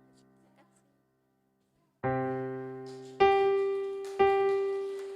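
Piano keyboard: a chord is struck about two seconds in, then two single notes about a second apart, each ringing on and slowly fading.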